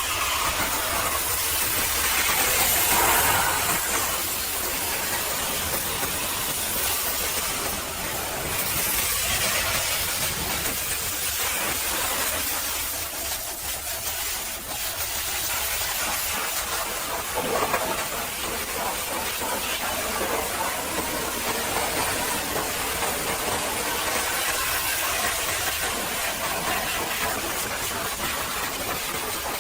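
High-pressure washer jet spraying water onto a truck: a steady hiss that swells and fades as the spray moves.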